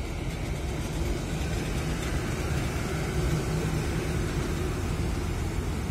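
Siemens Vectron electric locomotive (ÖBB Rh 1293) passing close at speed at the head of an intermodal freight train: a steady, loud rumble of wheels on rails, rising a little as it draws level.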